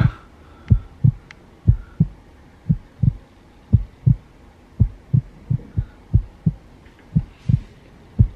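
A heartbeat sound: low, muffled lub-dub thumps in pairs, about one beat a second, steady and even.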